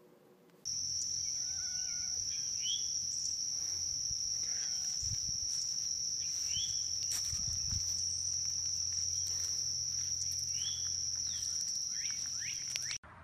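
Steady high-pitched drone of insects, such as crickets, holding one unbroken tone, with a few short bird chirps over it. It starts abruptly and cuts off suddenly near the end.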